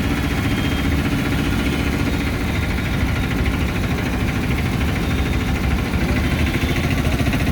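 Steady rumble of vehicle engines idling in traffic.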